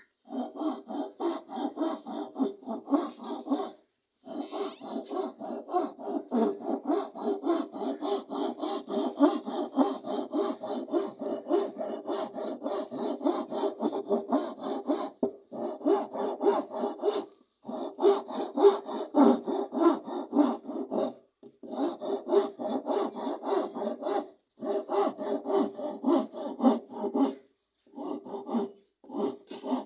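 Rapid, rhythmic rasping strokes of a hand tool working wood, in runs of several seconds broken by short pauses.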